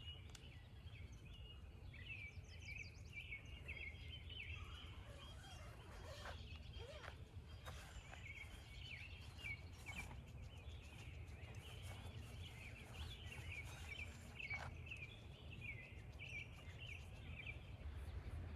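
Faint outdoor ambience: many small birds chirping and singing continuously over a low, steady rumble of wind or background noise, with a few faint clicks.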